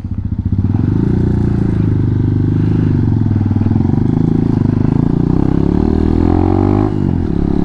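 Hawk 250's single-cylinder four-stroke engine pulling away and accelerating, its pitch rising and falling as the throttle is worked, with a brief drop about seven seconds in, like a gear change.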